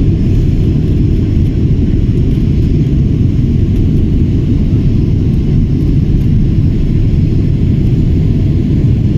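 Airliner's jet engines during takeoff: a loud, steady low rumble with no change in pitch.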